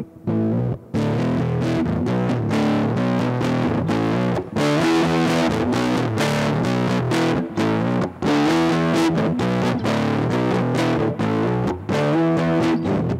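Electric guitar, a Squier Starcaster, played through a Big Ear Pedals LOAF medium-gain fuzz pedal: strummed, distorted chords in a thick, woolly fuzz tone, with two brief stops in the first second.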